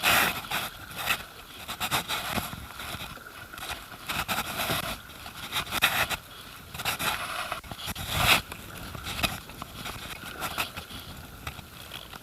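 Kayak on a flowing river: paddle strokes splash irregularly over running water, with scraping knocks, the loudest at the start and about eight seconds in.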